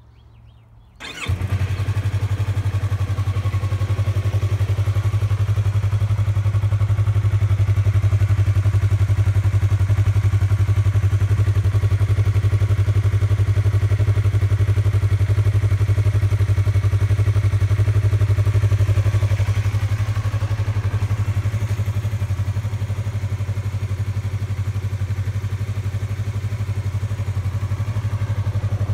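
Yamaha YZF-R3's 321 cc parallel-twin engine on its stock exhaust, starting up about a second in and then idling steadily, the note easing slightly lower about twenty seconds in.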